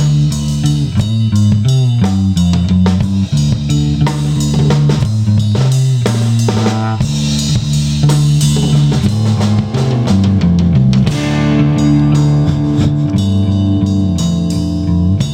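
Rock music, instrumental: a full drum kit with bass drum and snare playing a steady beat under electric guitar and bass lines.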